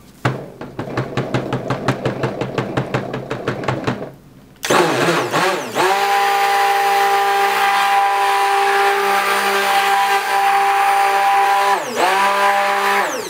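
Stick blender mixing soap batter (oils, butters, coconut milk and lye solution) to emulsify it. A rapid run of knocks fills the first four seconds. About four and a half seconds in the blender starts and spins up, runs steadily with a high whine, dips for a moment near the end, then winds down.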